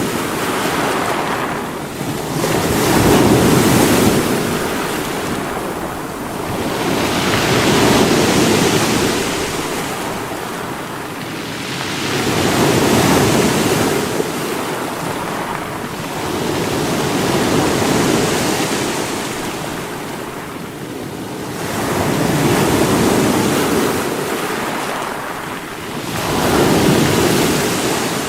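Sea waves breaking on rocks, a continuous wash of surf that swells and falls back about every four to five seconds.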